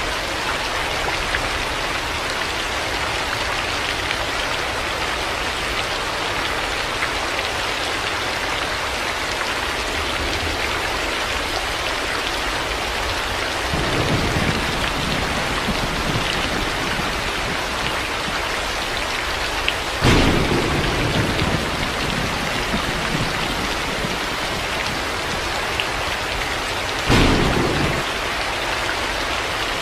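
Heavy rain falling steadily, with thunder three times: a low rumble about halfway through, a sudden clap that rumbles off for a couple of seconds about two-thirds in, and another short clap near the end.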